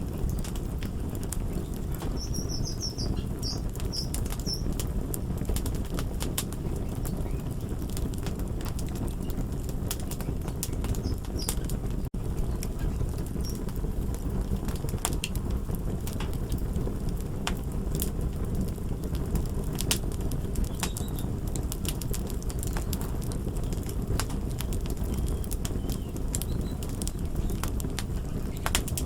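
Fire crackling: sharp pops scattered over a steady low rumble, with a few brief high chirps a few seconds in.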